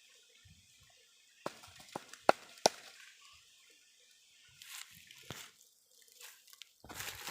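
Sharp clicks and knocks of a stingless bee hive box and its honey pots being handled during honey harvesting, four quick ones about one and a half to three seconds in, followed by short scraping rustles.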